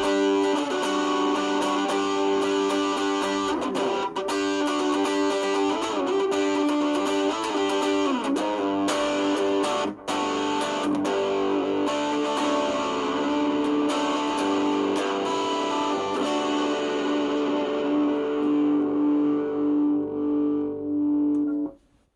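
Electric guitar played through a distortion pedal: sustained distorted chords and picked notes. Near the end a last chord rings on, pulsing in level, then is cut off abruptly.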